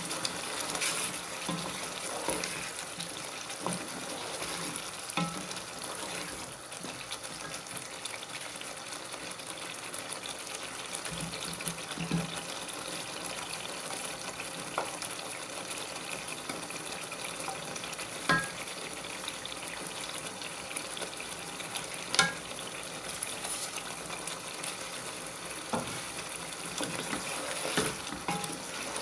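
Thick potato curry masala sizzling and bubbling in a pan, a steady hiss. A wooden spatula knocks sharply against the pan a few times, and near the end it scrapes as the masala is stirred.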